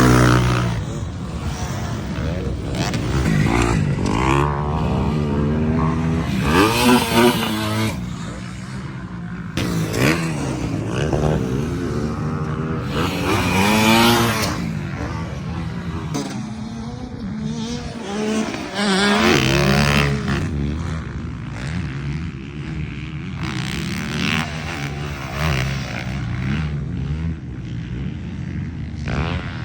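Dirt bike engines revving, their pitch rising and falling over and over as the throttle is worked.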